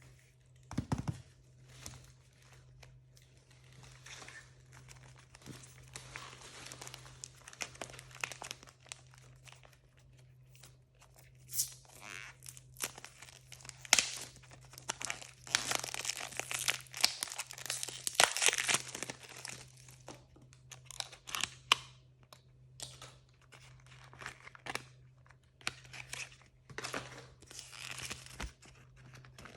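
Blind-bag packaging being torn open and crinkled by hand: irregular rustling and tearing with sharp clicks, busiest about halfway through.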